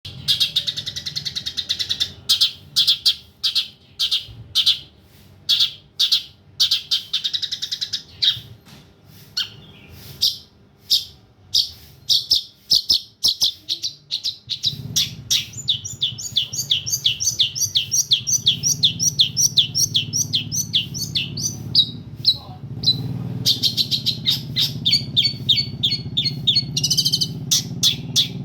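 Long-tailed shrike singing: long runs of sharp, rapidly repeated high chirps and trills, with short pauses between phrases. A low steady hum runs under the song from about halfway.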